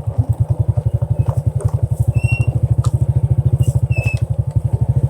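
Honda Dream's small single-cylinder four-stroke engine running at low, steady revs with a fast, even pulse, as the bike crawls along a rough dirt track. A couple of faint high chirps sound about two and four seconds in.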